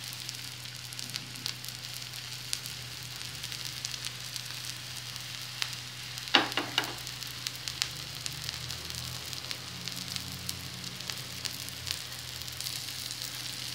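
Green chickpea fritters sizzling in mustard oil on a flat iron tawa over low heat: a steady frying hiss with fine crackles. A brief louder sound cuts in about six seconds in.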